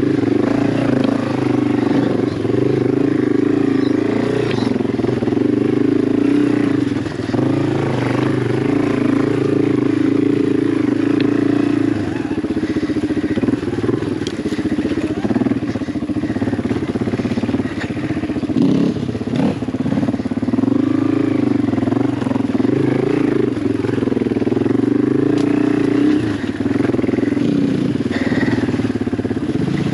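Yamaha TW200's air-cooled single-cylinder four-stroke engine running under load on rocky trail, its pitch rising and falling with the throttle, with occasional knocks.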